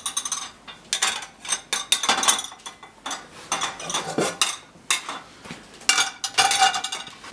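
Dishes and cutlery clattering and clinking in an open dishwasher as they are handled one after another, some clinks ringing briefly.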